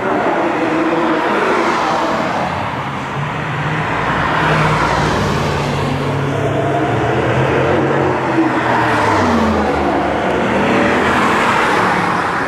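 Several Ford Mustangs driving past one after another, their engines running steadily; one drops in pitch as it goes by about nine seconds in.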